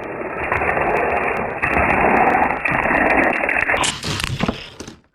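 Die-cast toy cars rolling down a plastic drag-race track, a steady dull rumble that ends in a few clicks and clatters near the end as they reach the finish.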